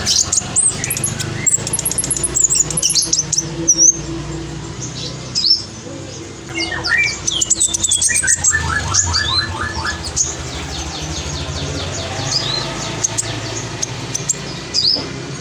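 Black sunbird singing rapid, high twittering phrases and trills, with other birds calling along. A descending run of notes comes about halfway through.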